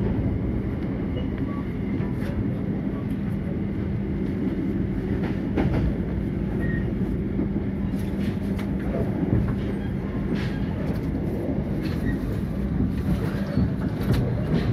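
KAI passenger train running, heard from inside the carriage: a steady rumble with a low hum and scattered clicks from the wheels on the rails.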